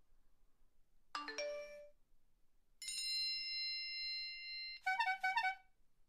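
Three short synthesized phone alert tones in a row: a quick chime of a few notes, then a steady electronic beep held for about two seconds, then a rapid trill of short beeps like a phone ringer.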